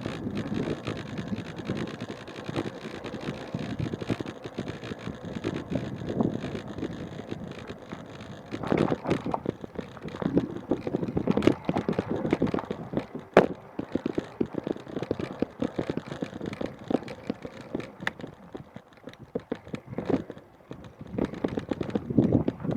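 Kayak paddling: uneven water sloshing and splashing from paddle strokes, with wind buffeting the microphone, and one sharp knock about 13 seconds in.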